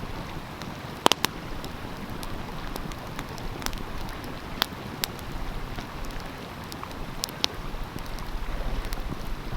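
Wood fire crackling with irregular sharp pops, the loudest a close pair about a second in, over the steady rush of a flowing stream.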